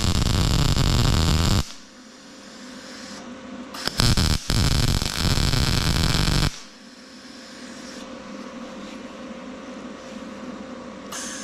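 Wire-feed welder arc crackling in two bursts, the first about 1.7 s long and the second, about 4 seconds in, about 2.5 s long. The welder is set low, for 16-gauge steel, so as not to burn through the thin plate.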